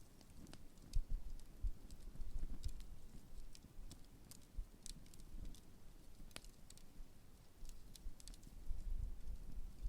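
Large wood campfire burning, with irregular sharp crackles and pops over a steady low rumble.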